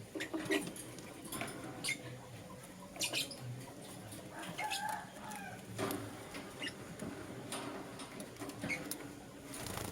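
Young lovebirds chirping: short, high squeaky calls coming irregularly, several a second at times, with a brief noisy burst near the end.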